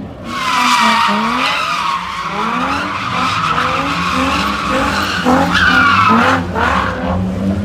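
A car drifting: its tyres squeal without a break for several seconds while the engine revs climb and drop again and again. The squeal grows louder about five and a half seconds in.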